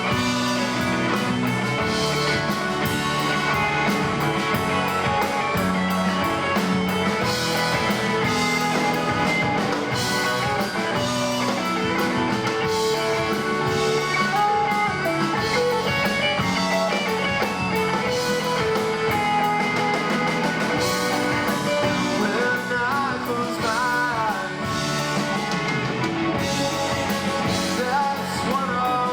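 Rock band playing live, with electric guitars and a drum kit in a long passage with no sung words.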